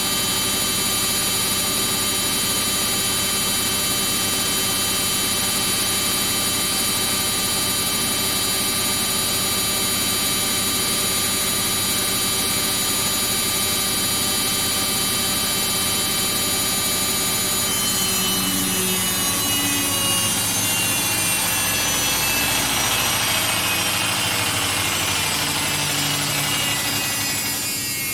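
Samsung EcoBubble front-load washing machine on its high-speed spin, the motor and drum giving a steady, many-toned whine; about 18 seconds in the spin starts winding down and the whine falls steadily in pitch.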